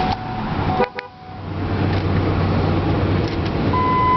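A 2005 Ford Expedition's 5.4-litre Triton V8 running at idle, heard from the cabin. There is a click about a second in, and a steady electronic beep tone starts near the end.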